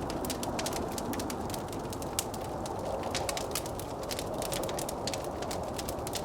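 Wood fire crackling with many quick, irregular pops and snaps, over a steady rushing blizzard wind.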